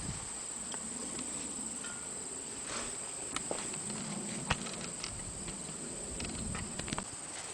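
Steady high-pitched chirring of insects, with a few faint short clicks and taps scattered through it.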